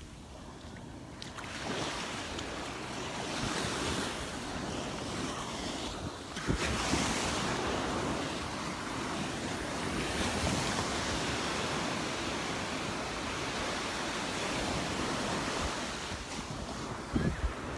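Surf breaking and washing up the beach, swelling and easing, with wind buffeting the microphone. Two short low thumps of wind on the microphone, about six and a half seconds in and near the end.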